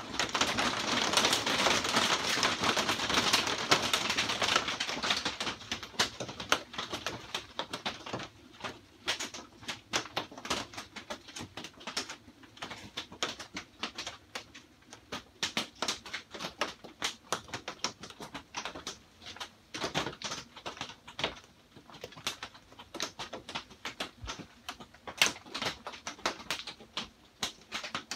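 Rain pattering on a greenhouse's corrugated plastic roof and panels, heard from inside: a dense, heavy patter for the first five seconds or so, then thinning to scattered, irregular drops tapping.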